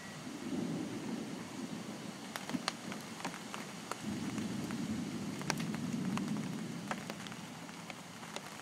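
Storm rain with wind gusting in two low swells, and scattered sharp ticks of drops striking a hard surface.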